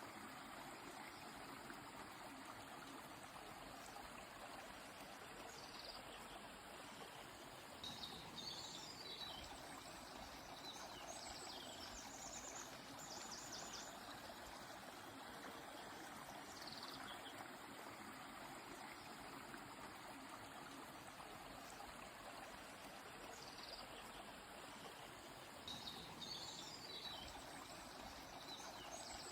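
Faint steady rush of a flowing river, with songbirds calling now and then over it: short falling whistles and quick runs of rapid repeated notes.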